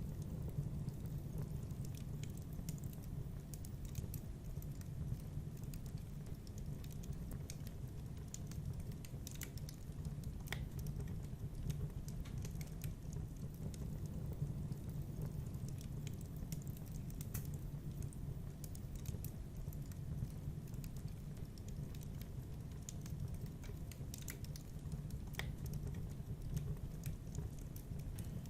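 Wood fire crackling in a fireplace: a steady low rumble with scattered, irregular sharp pops and clicks.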